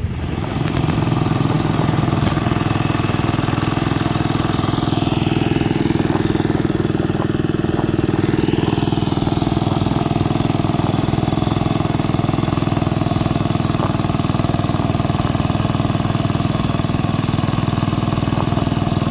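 A small garden-tractor engine running steadily close by, swelling up about half a second in and holding an even pace.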